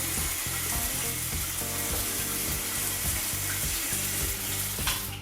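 Water spraying steadily from a single-mode shower head, a constant hiss of spray.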